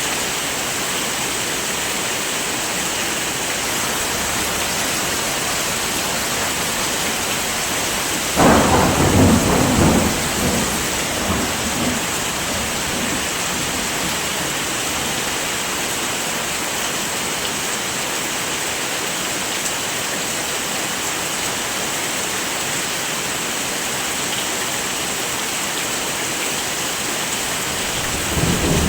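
Steady heavy rain falling, with a roll of thunder about eight seconds in that lasts a couple of seconds. Another roll of thunder starts right at the end.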